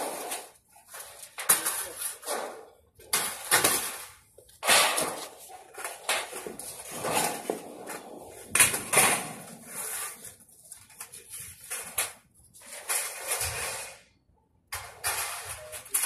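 Clattering and scraping of thin sheet-metal shed rails and panels being handled and set down on a concrete floor, in irregular bursts of sharp knocks and rattles.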